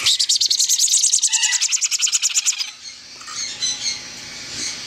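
Baby parrot chicks begging for food: a loud, rapid, rasping pulse of calls for about two and a half seconds, then softer scattered chirps.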